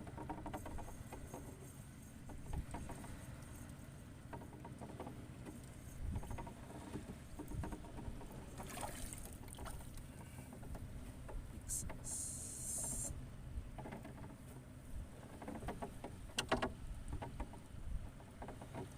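Shallow seawater sloshing and splashing, with scattered small knocks and a brief hiss about twelve seconds in.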